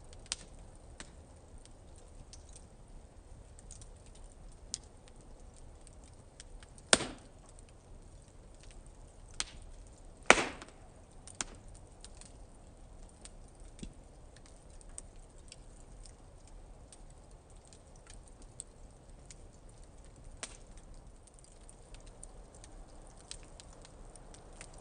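Wood fire crackling in a fire pit: scattered small snaps over a low steady rush, with two loud pops about seven and ten seconds in.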